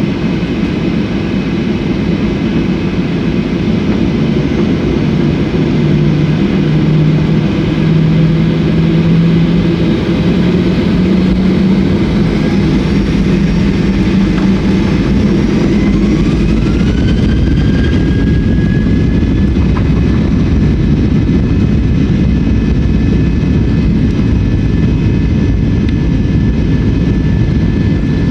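Airliner jet engines spooling up to takeoff thrust, heard from inside the cabin. A low hum climbs in pitch through the first half; about halfway through, a whine glides up and then holds steady under the continuous engine roar.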